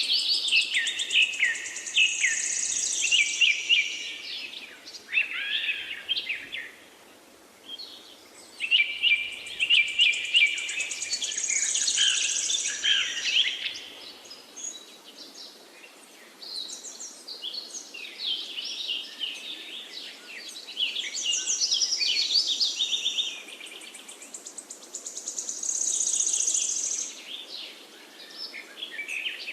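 Several forest songbirds singing over one another in quick high trills and chirps. The song comes in bouts a few seconds long with brief lulls between, over a faint steady hiss.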